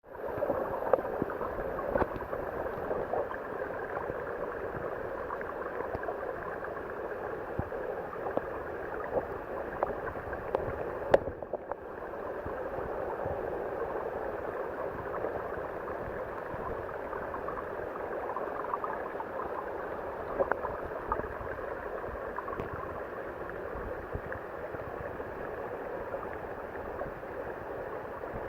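Steady rush of water from a waterfall and its pool, with occasional small clicks or splashes and a brief dip about eleven seconds in.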